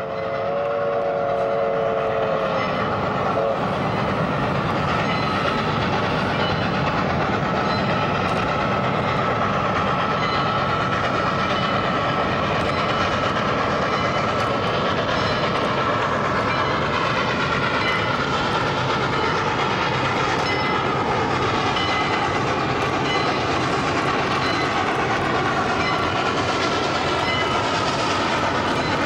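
Chicago & North Western 4-6-0 steam locomotive 1385 and F7 diesels working a train across a steel trestle bridge: a steady, loud rumble of the running train with a faint high tone over it. A brief train whistle note sounds in the first few seconds.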